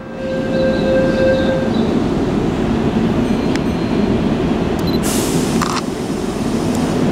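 A Keihan electric commuter train running into the platform and braking to a stop, with a heavy rumble of wheels on rail and a steady whine over the first second or two. About five seconds in there is a short, loud hiss of air.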